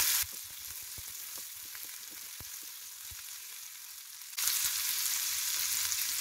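Chopped onions, mustard seeds, cumin and curry leaves sizzling in hot oil in a frying pan while a spatula stirs them, with light clicks of the spatula against the pan. The sizzle is quieter for most of the first four seconds and comes back louder about four seconds in.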